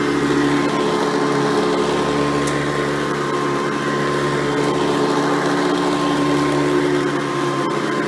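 Hoover Elite 350 upright vacuum cleaner, fitted with a 7-amp motor and seven-blade fan, running steadily with a constant motor hum and whine.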